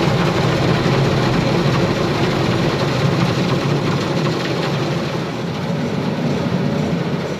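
Automatic car wash machinery running its wash cycle over the car: a loud, steady, dense rush of noise that begins to ease off near the end as the washing stage finishes.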